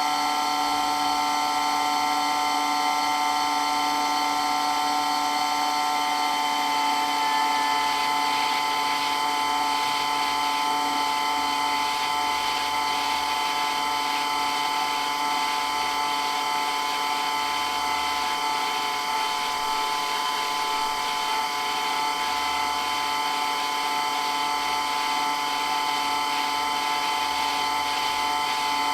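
Water pump for a water blaster running steadily with a very loud, even whine made of several steady tones. One of the higher tones drops away about six seconds in.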